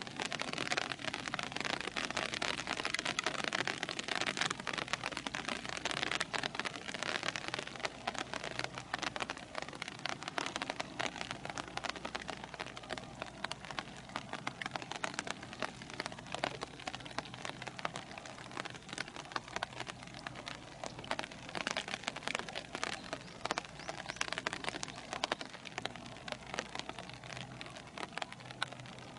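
Steady rain falling, a dense crackle of drops hitting a surface, slightly heavier in the first several seconds.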